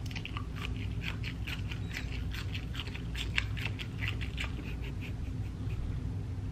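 Close-miked chewing of an asparagus spear: a quick run of small crisp, wet mouth clicks and crunches, several a second.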